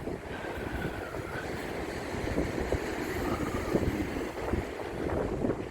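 Wind blowing across the microphone: a continuous low noise with uneven gusts.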